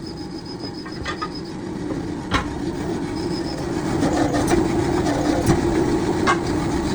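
Workshop machinery running with a steady rumble that grows louder, with a few sharp metal clinks or knocks.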